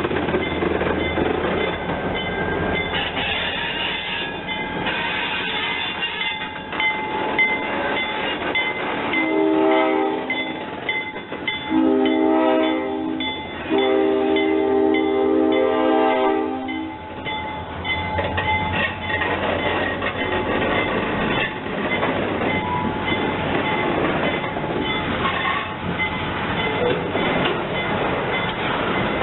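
Train running, with a steady rumble throughout. About nine seconds in, a train horn sounds three blasts: two of about a second and a half each, then a longer one of about three seconds.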